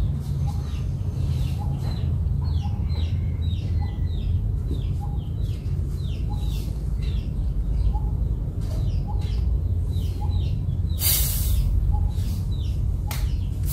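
Small birds chirping over and over in short, quick down-slurred notes, with a steady low rumble underneath. A brief loud hiss about eleven seconds in and a shorter one about two seconds later.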